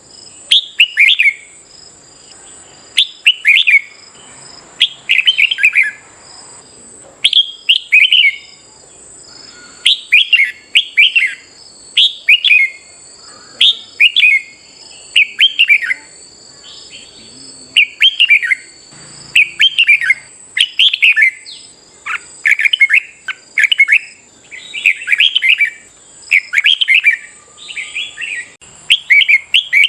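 Red-whiskered bulbul singing: loud short chirping phrases, repeated about once a second in quick bursts, over a faint steady high-pitched tone.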